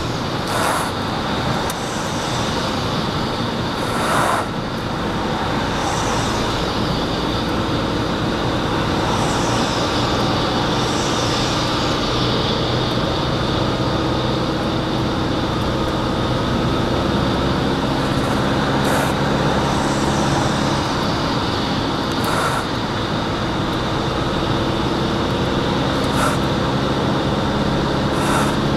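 Wind and road noise inside the cabin of a 2011 Fiat Doblò driving with the windows closed, over a steady engine hum, with a few short knocks. The owner takes the wind noise for an abnormal wind noise coming into the cabin.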